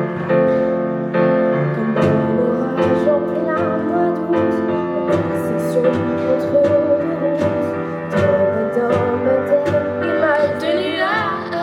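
Piano introduction of a song: chords struck on a steady beat, with a wavering melody line above them that has the most vibrato near the end.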